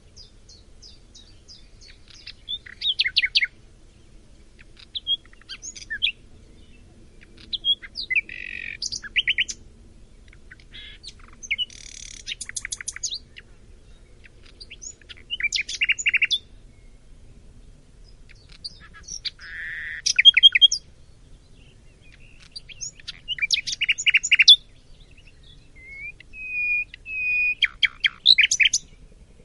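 A songbird singing in short, varied phrases of fast repeated notes and trills, with a pause of a second or two between phrases and a sustained whistled note near the end.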